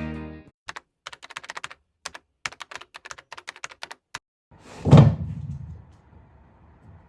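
Rapid irregular clicking and tapping, like cats' claws and paws on a hard floor as they scamper, then one loud thump about five seconds in.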